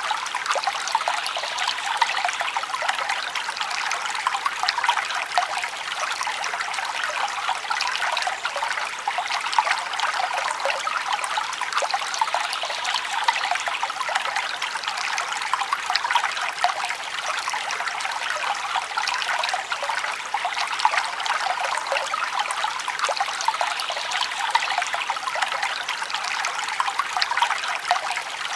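Forest stream trickling steadily, an even rush of water full of many small splashes, with no deep rumble.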